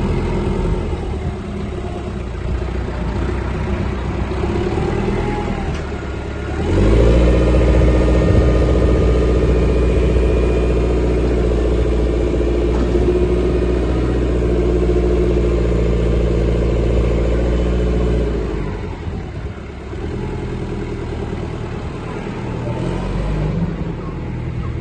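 Kubota L4240 tractor's diesel engine running at idle. About seven seconds in it is revved up and held at higher revs for roughly eleven seconds, then drops back to idle.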